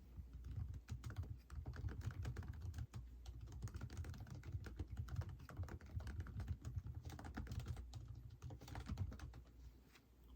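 Computer keyboard being typed on, a fast run of key clicks with brief pauses, easing off near the end.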